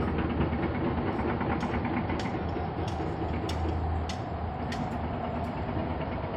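Electric tram running: a steady rumble with a low hum, and a few short sharp ticks scattered through.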